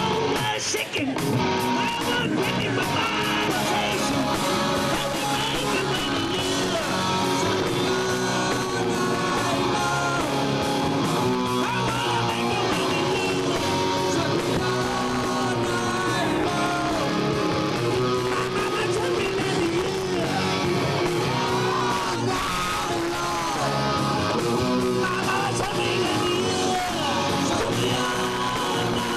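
Rock band playing live: distorted electric guitar and drums with a singer shouting and singing over them.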